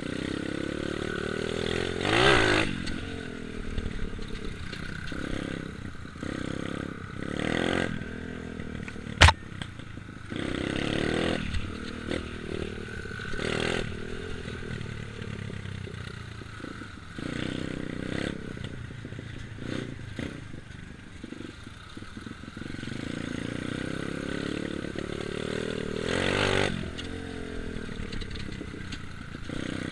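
Dirt bike engine running and revving up and down as it is ridden, louder at times as it comes close, with a sharp click about nine seconds in.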